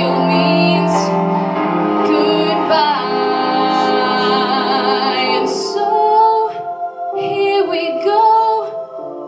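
A female solo vocalist singing over instrumental accompaniment, holding notes with vibrato.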